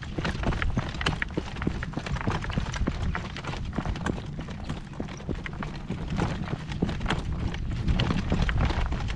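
A driving horse's hooves clip-clopping at a walk while he pulls a cart, with a steady low rumble underneath.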